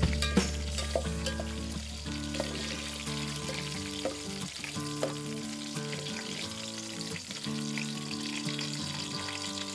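Garlic and whole spices (bay leaf, cinnamon, black pepper) frying in oil in a steel pot, with a spoon stirring and clicking against the pot's side. Soft background music with held chords plays under it.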